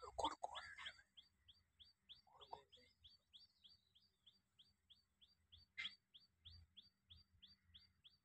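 Faint, rapid, evenly spaced high chirps from a small bird, about four to five a second, each note dropping slightly in pitch. A few louder, lower sounds break in during the first second and again around two and a half seconds in. A single sharp click comes near six seconds.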